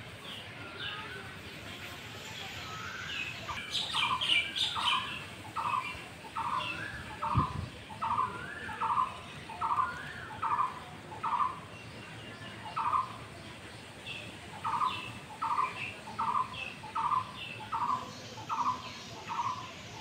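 Birds calling: one bird repeats a short call over and over, about one and a half times a second, with a short break midway, while other birds chirp higher.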